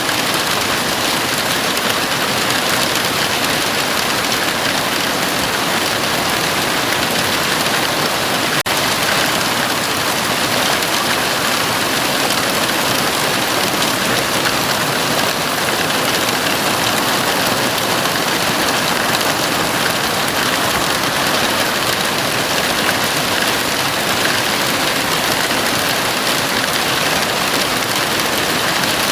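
Heavy rain falling steadily on a house roof, a dense even hiss, with a momentary dip in level about nine seconds in.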